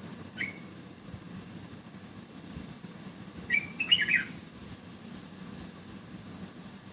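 A small bird chirping: a couple of short high calls at the start, then a louder quick run of chirps about three and a half seconds in, over a steady low hum.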